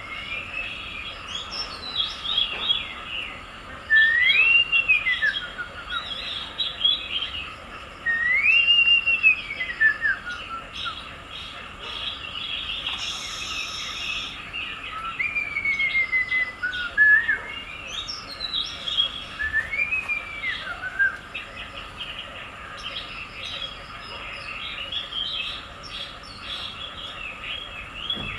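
Birds chirping and twittering continuously, with a clear whistled call that rises and falls, heard four times.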